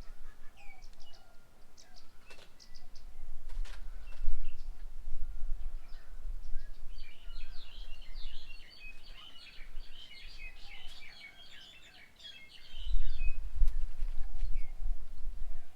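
Small birds calling at and around a garden bird table, with short scattered chirps and a burst of busy, overlapping chattering in the middle. An uneven low rumble underneath is loudest near the end.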